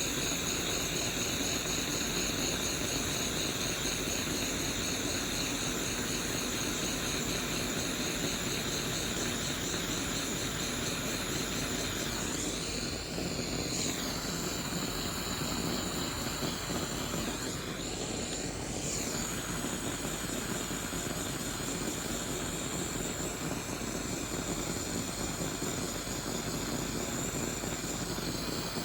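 Small handheld butane torch burning with a steady hiss while it heats heat-shrink wrap on a battery cell. The flame's pitch dips briefly twice, around the middle.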